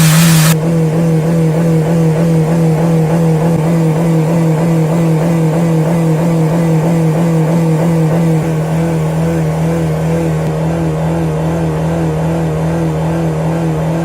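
Engine held at steady high revs, a loud even hum that keeps one pitch. A loud hiss over it cuts off about half a second in.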